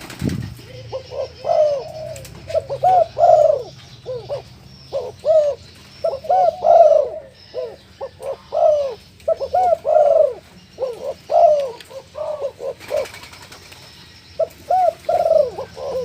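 Tame colour-morph puter dove (domestic Barbary/ringneck dove) cooing over and over in phrases of short rising-and-falling notes, with a pause of about two seconds past the middle.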